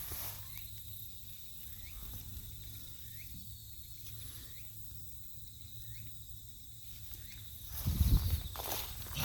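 Insects trilling steadily in a high, even tone, with a few loud low thumps about eight seconds in.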